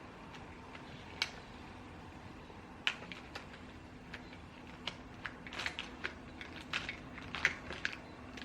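Irregular light clicks and taps of someone working at a desk, coming more often in the second half, over a steady faint room hum.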